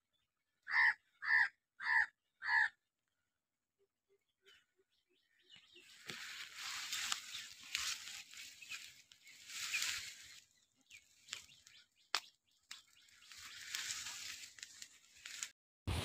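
A bird calls four times in quick succession. Later comes a long stretch of rustling and crackling with a few sharp clicks.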